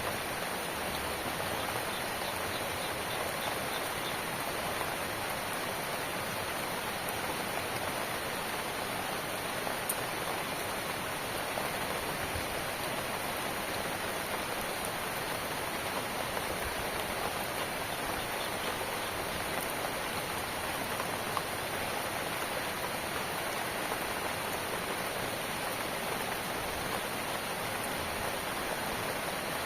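Steady rainfall with scattered drop patter. A single sharper drop tick about ten seconds in.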